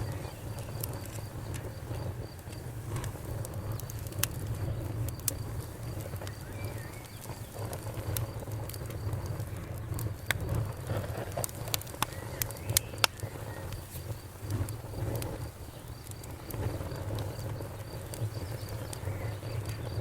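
Wood fire crackling, with frequent sharp pops and snaps over a steady low rumble of burning flames. A faint, steady high chirping of crickets runs underneath.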